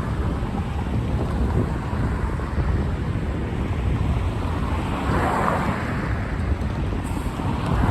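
Steady rushing noise with a low rumble and no voices, swelling slightly about five seconds in and again near the end.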